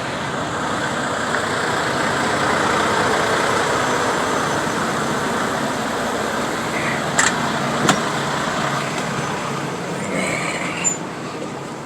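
Steady engine and road-vehicle noise, like trucks idling and traffic, a little louder in the middle, with two sharp clicks about seven and eight seconds in.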